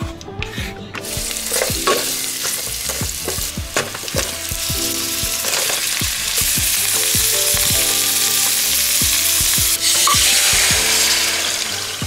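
Onions, red potatoes and corn sizzling as they sauté in hot oil in a pot. The sizzle starts about a second in, grows louder and eases off near the end, with scattered knocks from stirring.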